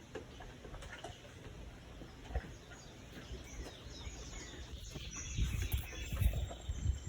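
Small birds chirping and calling, busier in the second half, with low rumbling noise coming in about five seconds in.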